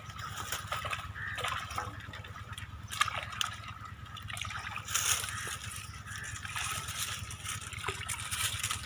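Water trickling and sloshing, with scattered small splashes and clicks.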